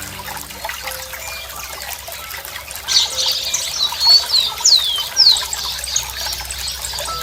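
Running water trickling steadily, with a bird joining in from about three seconds in with a run of high whistled notes that slide quickly downward, a few in a row.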